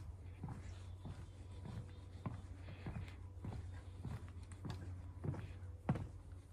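Footsteps of a hiker walking at a steady pace, about one and a half steps a second, over a low steady rumble.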